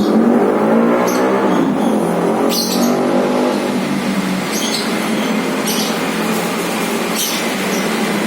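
A motor vehicle engine runs steadily, its pitch rising and falling a little in the first few seconds. Short, sharp high chirps, typical of a lovebird, break in now and then over it.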